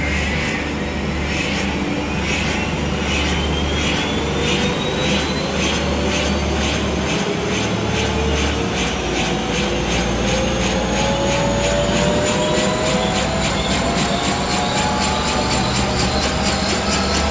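Helicopter starting up: a steadily rising turbine whine, with the rotor's regular beat getting faster as the rotor spins up.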